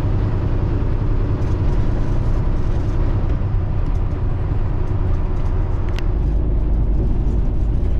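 Semi-truck cab noise at highway speed: a steady low engine and road rumble, with a single sharp click about six seconds in.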